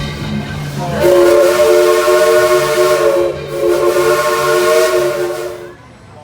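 Steam locomotive's chime whistle sounding two long blasts, a chord of several notes over a hiss, the second blast cutting off near the end.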